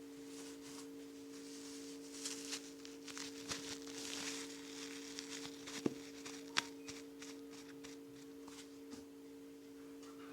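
A steady two-note electrical hum, with light rustling and clicking in the middle from things being handled, including two sharp clicks a little over half a second apart.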